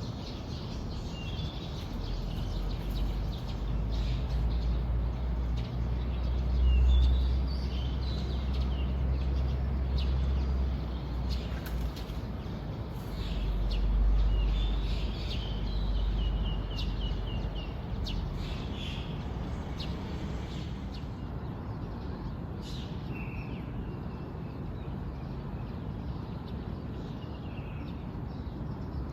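Songbirds chirping and calling in short phrases, with a quick run of repeated notes about halfway through. Under them a low rumble swells and fades over the first half, loudest of all.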